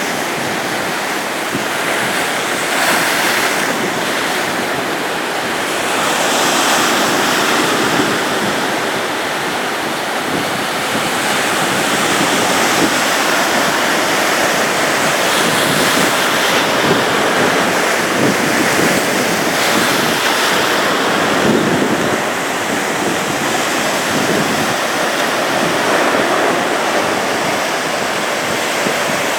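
Ocean surf breaking and washing onto the beach, a continuous rush of waves that swells and eases every few seconds.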